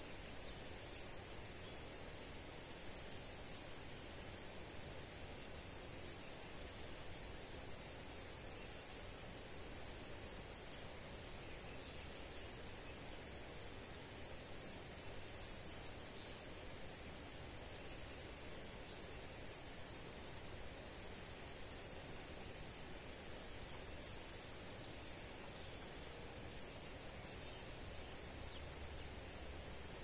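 Small birds calling: many short, very high-pitched chirps that slide downward, one or two a second and sometimes overlapping, with one louder chirp about halfway through. Steady outdoor background noise runs underneath.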